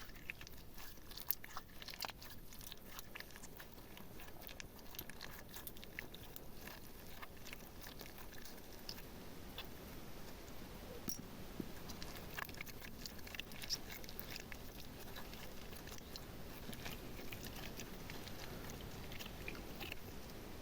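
Slime mixed with small decorative bits being squished and stirred, giving a dense run of small sticky clicks and crackles.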